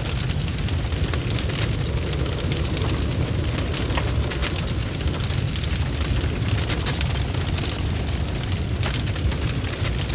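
Wood fire burning steadily, with a deep low roar under it and frequent sharp crackles and pops.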